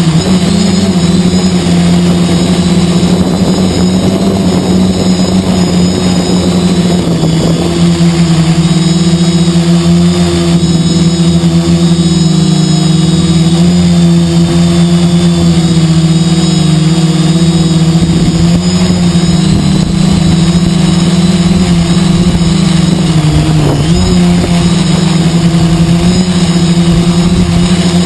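Quadcopter's four brushless motors (2212 1000KV) with 10x4.7 carbon propellers, heard from the onboard camera: a steady loud drone whose pitch wavers slightly as the motors correct in flight, with a brief dip about 24 seconds in. Gusty wind buffets the microphone with a fluttering rumble.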